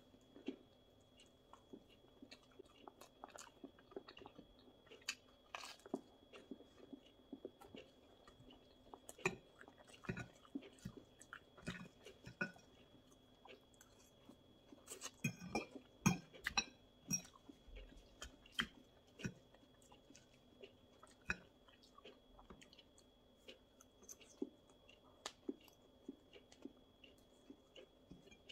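Close-miked chewing and biting of pizza and leafy salad: soft, irregular crunches and mouth clicks, busiest about halfway through.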